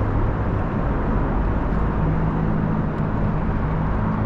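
Boat motor running steadily, with a low hum; a second, higher hum joins about two seconds in.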